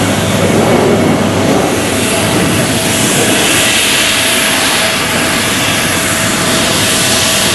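Jet airliner's engines, loud and steady, with a faint steady whine.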